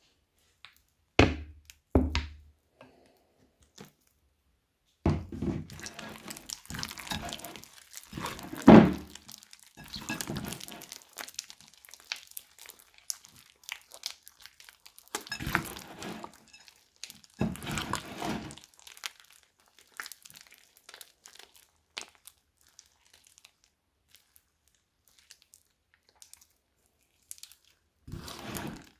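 Crunchy slime made with plastic bag pieces, foam and clay being squeezed and pressed by hand: crackling, crinkling and crunching in bursts, with a few soft thuds, the loudest about nine seconds in. It goes quieter with only scattered ticks in the second half, and another short crunchy burst comes near the end.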